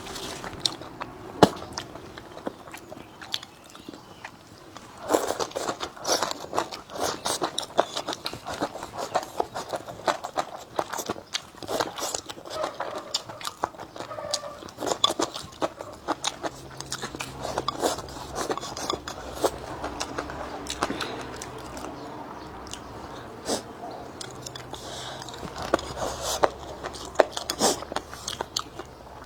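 A person eating close to the microphone, biting and chewing food with many quick wet smacks and clicks that come thicker and louder from about five seconds in.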